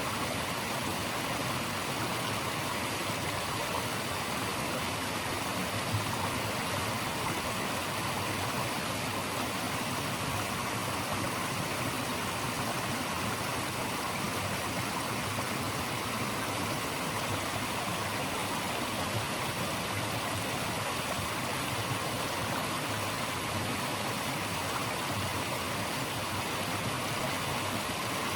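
Running water rushing steadily, an even hiss with no changes.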